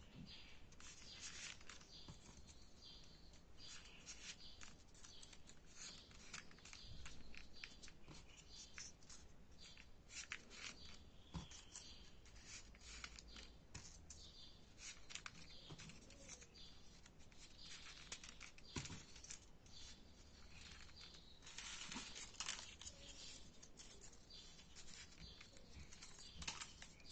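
Faint rustling and crinkling of paper being folded and handled for 3D origami units, with many short, sharp crackles.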